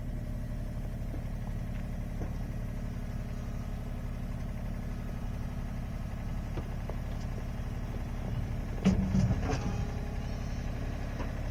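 Engine idling steadily, with a brief louder burst of knocks about nine seconds in.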